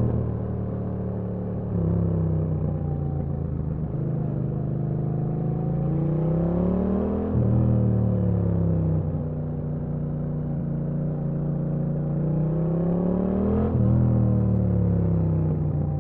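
Yamaha MT-07's 689 cc parallel-twin engine running under a rider: it cruises steadily, then revs rise in pitch twice and drop sharply about seven seconds in and again near the end, as the rider shifts up a gear.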